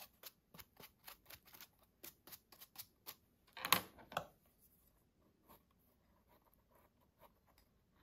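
Short brush strokes sweeping dirt off freshly picked wild mushrooms, about four a second. There is one louder, longer scrape near four seconds in, then fainter, sparser strokes.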